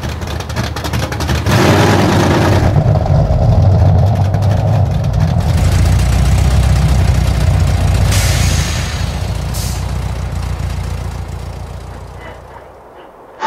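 Car engine running, getting louder about a second and a half in and fading away over the last few seconds.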